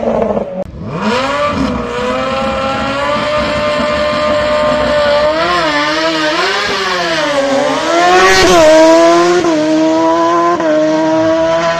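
Racing car engine at high revs on a hill climb, its pitch climbing, then wavering up and down as the throttle is lifted and reapplied through a corner, then climbing again through gear changes. A sharp pop cracks out about eight and a half seconds in.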